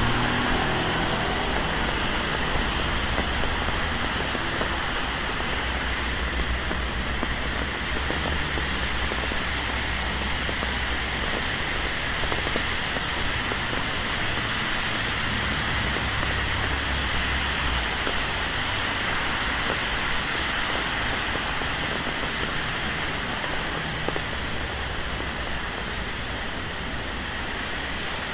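Steady rain falling on a city street, with a low traffic rumble underneath that fades out about two-thirds of the way through.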